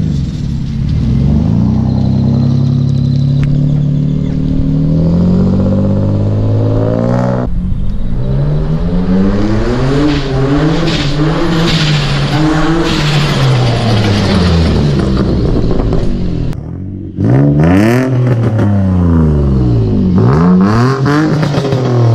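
Nissan 350Z's single-turbo V6 engine revving hard, its pitch climbing steadily for about seven seconds before a sudden break. It then rises and falls in pitch again and again, with a brief drop in level near the sixteen-second mark.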